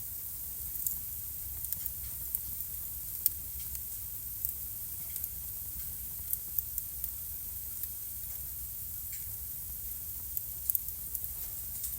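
Wood fire crackling in a fireplace: a steady hiss and low rumble of burning logs with scattered sharp pops, one louder pop about three seconds in and a quick cluster of pops near the end.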